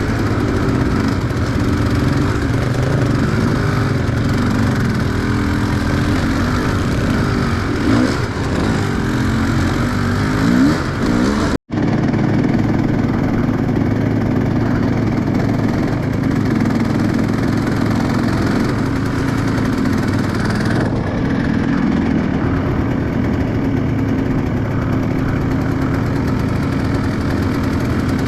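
Enduro motorcycle engine running steadily, its pitch rising and falling a few times around the ten-second mark. The sound cuts out for an instant about twelve seconds in, then the engine carries on running.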